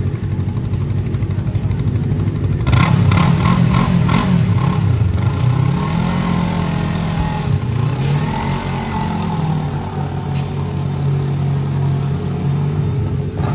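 Sport motorcycle engines running, with a louder engine coming in about three seconds in and revving, its pitch rising and falling several times before settling back to a steady run.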